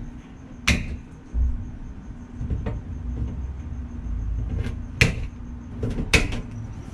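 Hand snips cutting 1/4-inch metal wire mesh: sharp snaps of the wires being cut, once about a second in and twice near the end, with the mesh rustling and knocking as it is handled in between.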